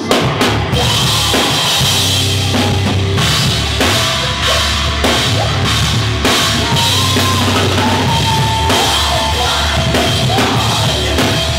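Hardcore band playing loud in rehearsal: a full drum kit with kick and snare hits driving a dense, steady wall of band sound.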